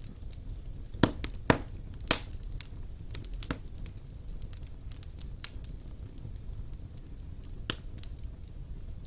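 Wood fire burning in a fireplace: a low steady rumble of flames with irregular crackles and a few sharp, louder pops of burning logs.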